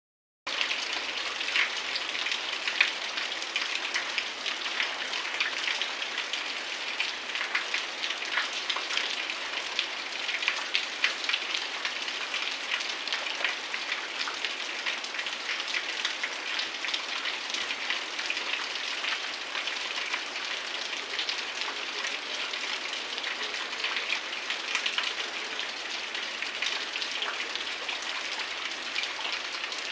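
Heavy rain falling: a steady hiss with a dense patter of individual drops striking surfaces.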